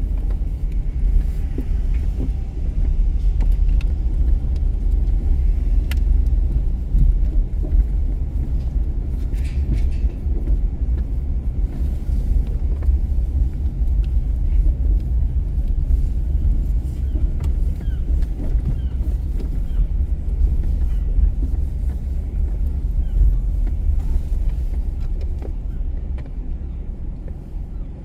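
Road noise from a moving car: a steady low rumble of tyres and engine, easing off near the end as the car slows.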